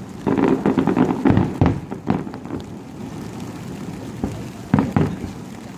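Fireworks shells bursting in a string of booms, with a loud pair close together near the end, over a steady rumble.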